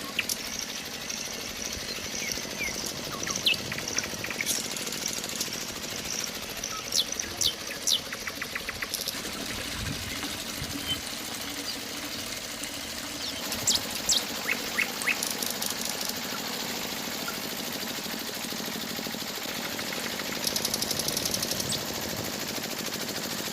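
A small DC motor driving a miniature model mechanism, rattling rapidly and steadily, with birds chirping.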